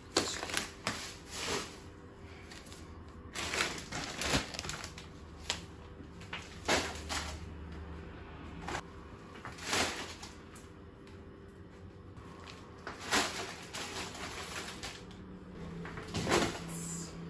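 Packaged food items being handled and set down into a small storage basket: scattered knocks, taps and packet rustles at irregular intervals.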